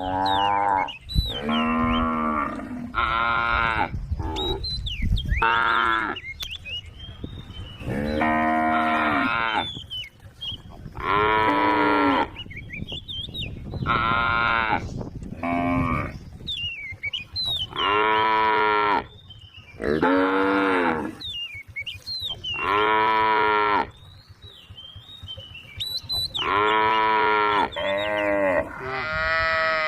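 Several cows mooing over and over: about a dozen long, low calls, each about a second long, one every two to three seconds. Short, high chirps are heard in the gaps between the calls.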